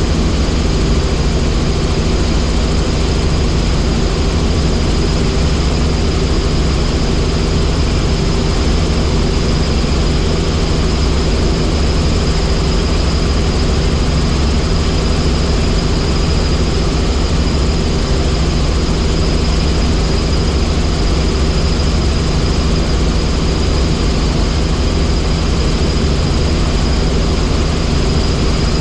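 Helicopter in flight: steady, unchanging rotor and engine noise with a thin constant high whine.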